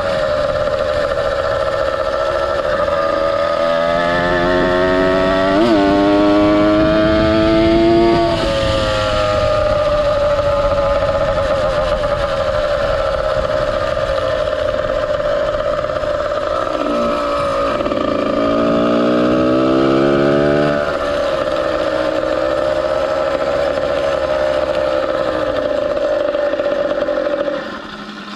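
Ported 100cc two-stroke motorized-bicycle engine with a YZ85 expansion-chamber pipe, ridden under way. It revs up twice, its pitch climbing for several seconds before falling back as the throttle eases, and runs steadily in between, easing off just before the end.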